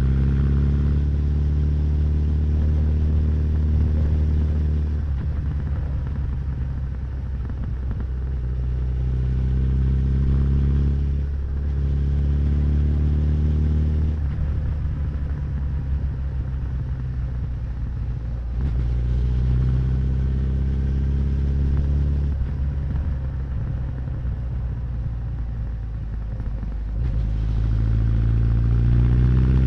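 Honda CB1100's air-cooled inline-four running through its exhaust while riding. It pulls up in rising pitch several times under throttle, easing back to a lower, rougher rumble off throttle in between.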